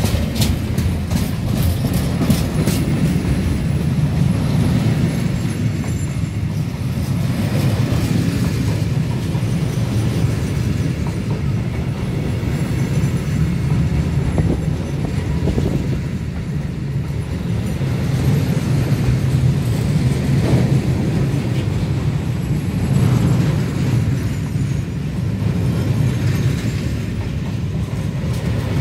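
Container freight train's flat wagons rolling steadily past: a continuous low rumble of steel wheels on the rails, with a cluster of sharp clicks in the first couple of seconds.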